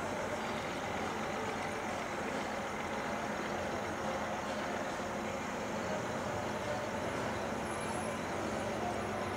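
Distant diesel locomotives of an approaching BNSF double-stack freight train, a steady low rumble.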